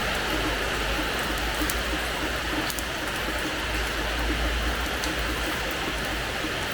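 Steady rain falling on a hard terrace floor: an even hiss with scattered sharp ticks of single drops and a low rumble underneath.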